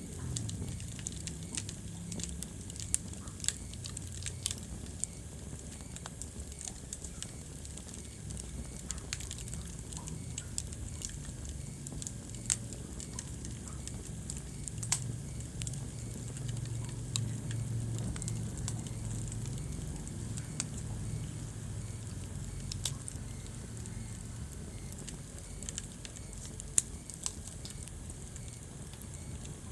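Wood fire crackling in a fireplace: a steady low rumble of flames with sharp pops and snaps scattered irregularly through it, the loudest pop near the end.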